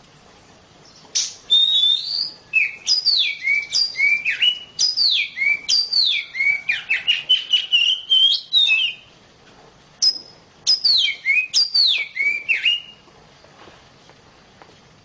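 Female Oriental magpie-robin (kacer) giving her mating call: a rapid string of clear whistles that slide downward. They come in two runs, a long one and then a shorter one after a brief pause. The call is used as a lure to excite a male in breeding condition.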